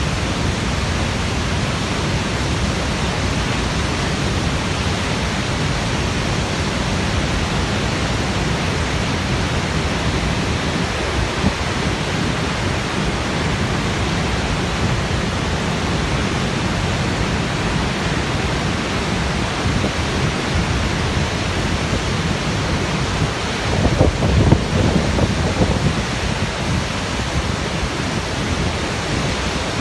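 Waterfall: a steady, loud rush of falling water. About four-fifths of the way through, a deeper rumble swells for a couple of seconds.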